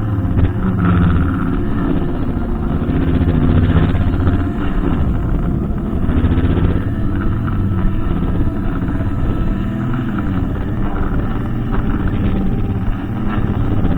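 A brushcutter's engine running steadily at working speed, its pitch wavering gently up and down.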